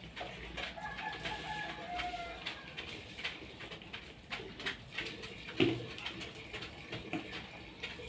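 Birds calling, with one drawn-out call from about a second in that dips slightly at its end. Scattered light knocks and clatter of containers being handled run alongside, the loudest knock a little past halfway.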